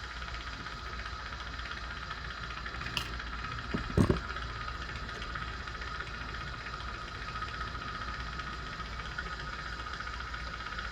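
Jeweler's torch with a #4 tip burning steadily, heating the fluxed joint and solder, with two light clicks about three and four seconds in.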